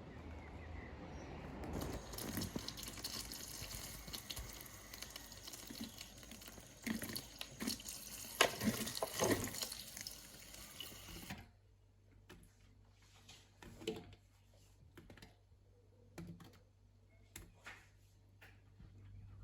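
Water running from a kitchen tap with light clattering of handling. About eleven seconds in it cuts off to a quieter stretch with scattered clicks and knocks.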